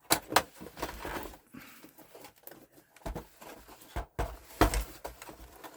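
Handling noise: a run of irregular clicks and knocks, with a few heavier thumps about three to five seconds in, as hardware and cables are moved about on a work surface.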